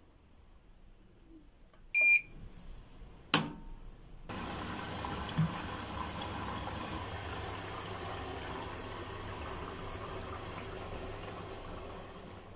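A short electronic beep, a sharp click a second later, then a steady rushing noise with a low hum that starts abruptly and runs on, as from an appliance switched on or water running.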